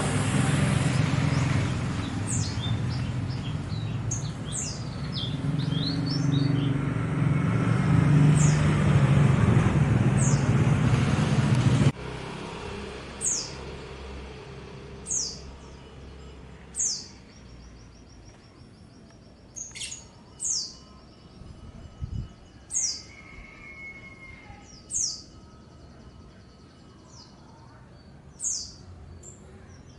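Small songbirds chirping: short, sharp, downward-sweeping calls repeated every second or two, with a brief trill now and then. For about the first twelve seconds a loud low engine rumble runs underneath and then stops abruptly.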